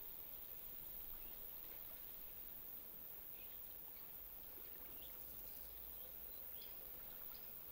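Faint outdoor background noise, with a few short, high chirps from birds scattered through it.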